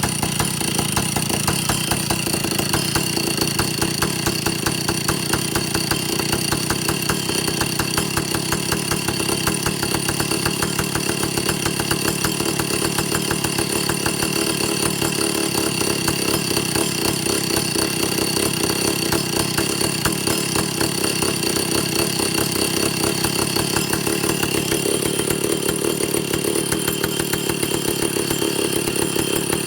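Vintage Stihl chainsaw's two-stroke engine running steadily on a test run after its air leaks were fixed and the carburetor was set to its initial settings. The sound shifts slightly about 25 seconds in.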